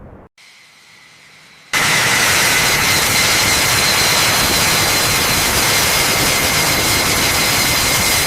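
Jet engine running: a loud, steady roar with a high, steady whine, starting suddenly about two seconds in and cutting off abruptly at the end.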